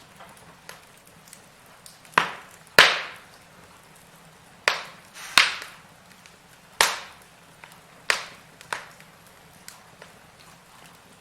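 Firewood burning in a fireplace, crackling: a string of sharp pops, about seven loud ones and several small ticks, over a faint steady hiss.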